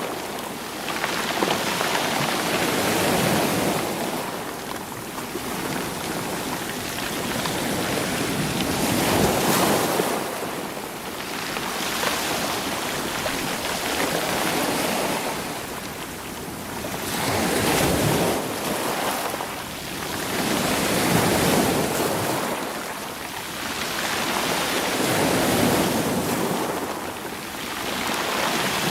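Sea waves washing onto a stony shore, stones rolling in the surf. The wash swells and ebbs in repeated surges every few seconds.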